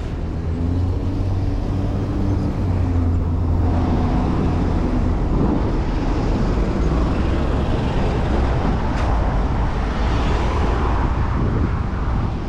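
City street traffic heard from a moving bicycle: a nearby vehicle's engine hums low and steady for the first few seconds, then wind and road rush grow louder.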